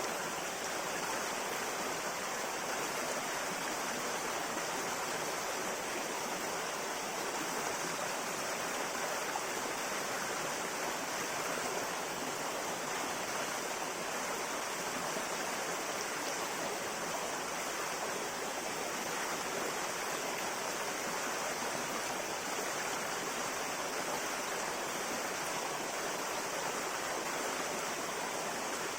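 A river flowing over rocks: a steady, even rush of water that doesn't change.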